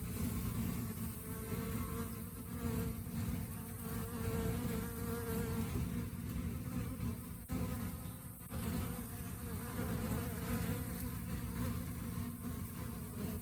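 Honey bees buzzing in a dense, steady drone, with two brief dips about halfway through.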